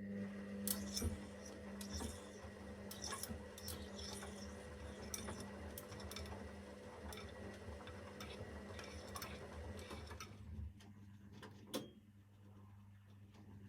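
Zanussi FL984CN washing machine turning its drum during a wash cycle. The motor starts abruptly and runs with a steady hum under many sharp clicks and clinks, then it stops about ten and a half seconds in, leaving a fainter hum and a few clicks.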